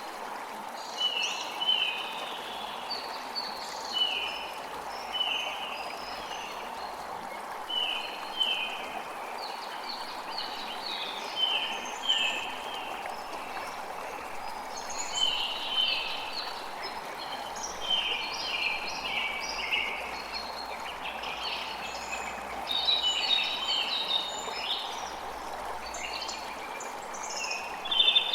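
Creek water running steadily, with birds chirping in short repeated calls over it, the chirping busiest near the end.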